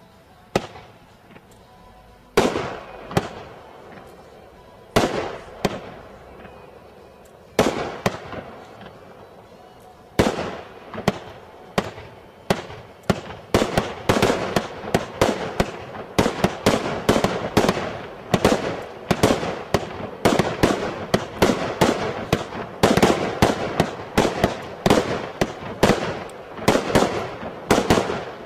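A 37-shot firework cake firing: single sharp bangs a couple of seconds apart at first, then from about halfway a rapid string of shots, each bang with a short trailing tail.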